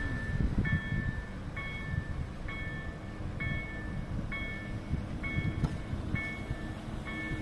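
Level-crossing electronic warning sounders (EDG-2005) beeping a two-tone signal about once a second while a passenger train passes over the crossing with heavy low rumble and wheel noise. A low drone from the train drops in pitch right at the start as it goes by.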